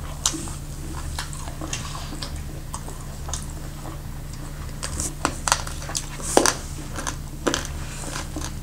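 Chewing and biting food, with scattered short wet clicks and smacks that come thicker a little past the middle, over a steady low hum.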